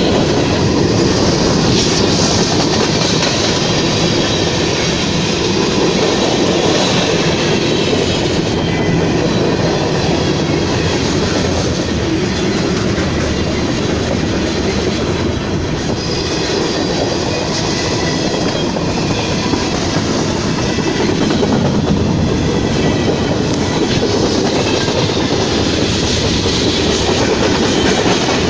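A train rolling steadily past at close range: a continuous loud rumble and rattle of cars and steel wheels on the rails.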